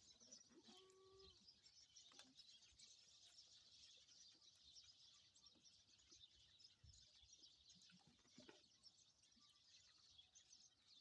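Faint, dense high twittering of small birds chirping, with a brief faint call about a second in.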